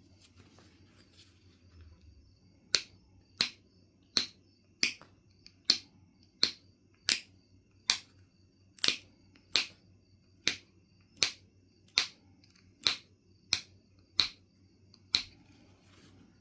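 Knife River Flint being struck with a knapping tool: seventeen sharp stone clicks, evenly spaced a little under a second apart, starting a few seconds in and stopping shortly before the end.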